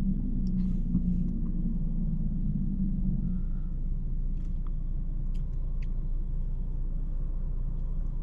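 Audi S5 heard from inside the cabin while driving: a steady low rumble of engine and road noise, with a few faint ticks.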